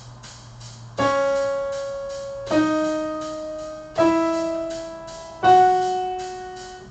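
Piano playing four single notes about a second and a half apart, each left to ring and fade, rising step by step from C sharp: a short scale pattern in F sharp major.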